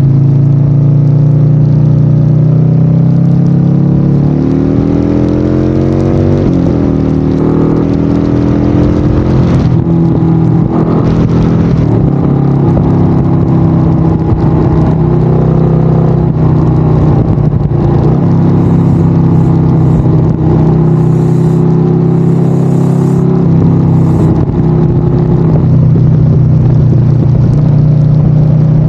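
Harley-Davidson Sportster 1200's air-cooled V-twin engine running under way, its pitch climbing about four to seven seconds in as the bike accelerates, then holding a steady note.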